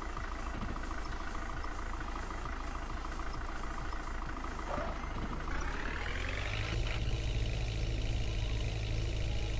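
Tractor engine running, then revving up about six seconds in and holding at the higher speed.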